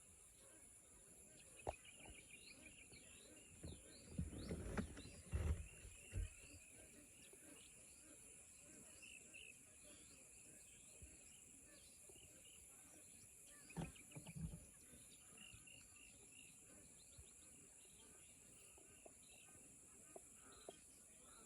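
Faint outdoor wetland ambience: a steady high-pitched insect drone with scattered small bird chirps. A few low thumps stand out about four to six seconds in and again around fourteen seconds.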